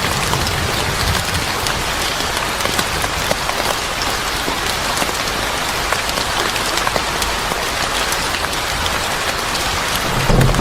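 Steady rain falling hard on a surface, with many sharp drop ticks through it. A low rumble of thunder starts to build just before the end.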